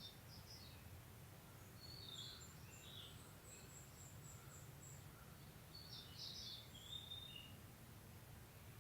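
Faint birdsong: a few brief clusters of high chirps, at the start, around two to three seconds in, and again about six to seven seconds in, with a quick run of thin, very high notes in between. A faint steady low rumble sits underneath.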